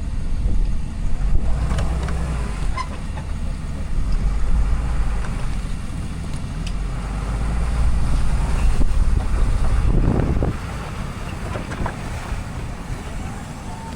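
Diesel pickup truck's Cummins engine running with a steady low rumble that swells and eases a few times, with a few light clicks.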